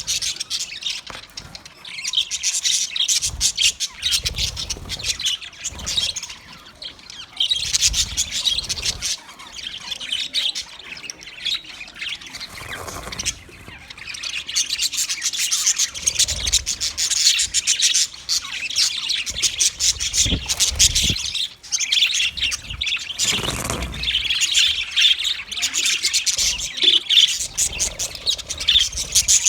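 Budgerigars chattering: a continuous stream of fast high chirps and warbles, easing off briefly a few times.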